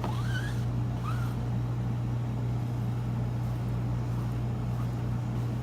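A steady low background hum, with a few faint short squeaks in the first second or so.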